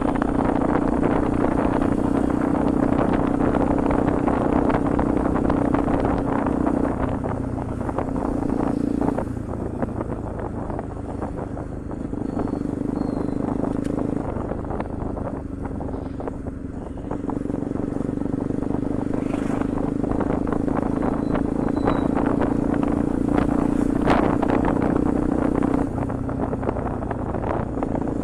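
Bajaj Pulsar NS200's single-cylinder engine running through an aftermarket Akrapovic exhaust while riding. Its steady exhaust note eases off for several seconds in the middle, then picks up again.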